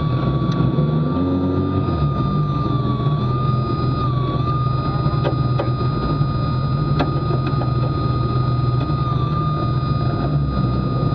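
Renault Clio Maxi race car's 2.0-litre four-cylinder engine idling steadily, heard from inside the stripped, roll-caged cabin, with a steady high whine over it.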